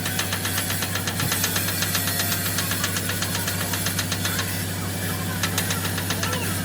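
Truck diesel engine idling, with a rapid, regular knocking clatter that fades a little after about four seconds.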